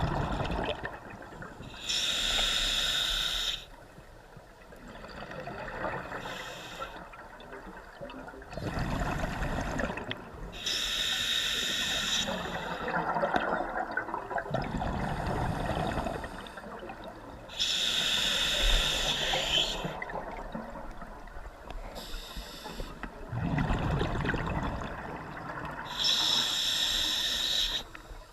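Scuba diver breathing underwater through a regulator: a slow inhale hiss, then a gurgling rush of exhaled bubbles, repeating as four breaths about eight seconds apart.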